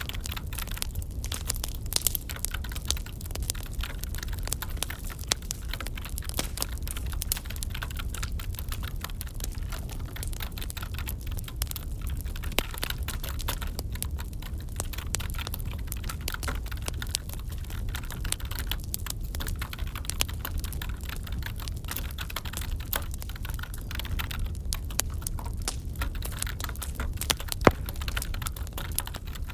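Crackling wood fire with a steady low rumble, its irregular snaps and pops mixed with computer keyboard typing. There is one sharper pop near the end.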